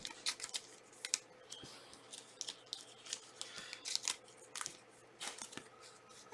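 Trading cards being handled and flipped through by hand, a run of irregular soft clicks and scrapes.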